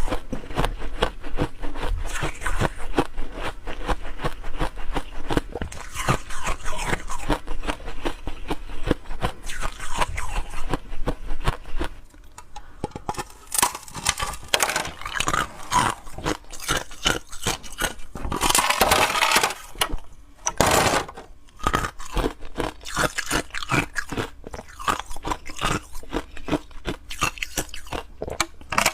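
Ice being bitten and crunched between the teeth: a dense, rapid run of sharp crunches and cracks, with a short lull about twelve seconds in and a louder, longer crunching scrape about two-thirds of the way through.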